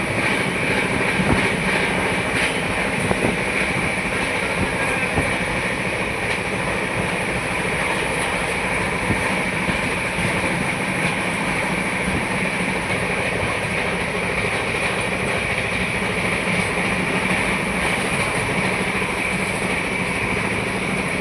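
Kota–Patna Express passenger train running at speed, heard from an open coach door: a steady rush of wheel and rail noise and wind with a constant whine near the top.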